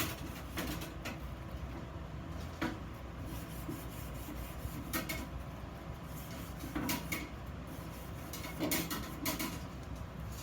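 Scattered knocks and clinks of metal pieces and tools being handled at a workbench, about ten in all at uneven intervals, over a steady low hum.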